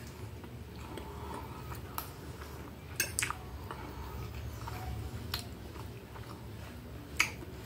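A person chewing a mouthful of food with the mouth closed, with a few short, sharp clicks, likely from the fork or the mouth.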